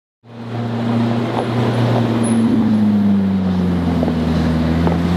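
A car engine running at low revs as a steady low drone, its pitch sagging slightly toward the end.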